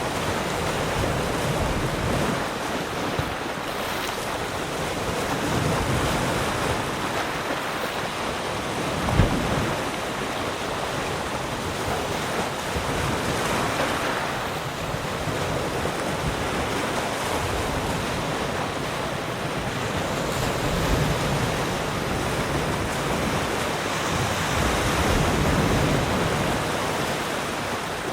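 Ocean waves washing onto a shore in a steady rush of surf that swells and ebbs every few seconds, with a brief low thump about nine seconds in.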